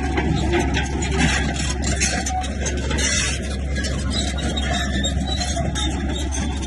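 Bulldozer's diesel engine running steadily, with clanking and scraping from the tracks and the rock being pushed.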